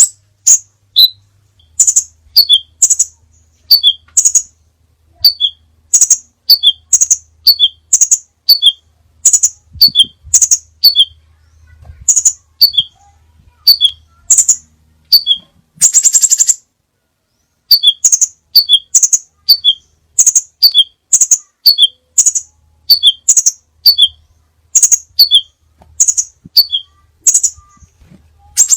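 Crimson sunbird calling: a steady series of short, high chips, about two a second, broken by a brief rapid trill about halfway through.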